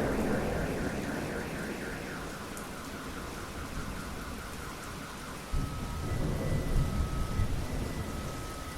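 Steady rain during a thunderstorm, with a thunder rumble dying away at the start and another rolling in suddenly about five and a half seconds in. Faint electronic tones sound over the rain: a rapid warbling early on, then short steady beeps from about six seconds in.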